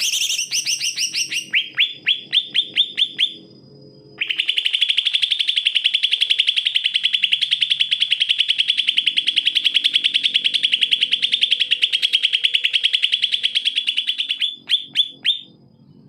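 Male greater green leafbird (cucak ijo) singing: fast runs of high, upward-sweeping notes. A short burst opens the song, then after a brief pause comes a long unbroken string of rising notes lasting about ten seconds, and a few last notes close it.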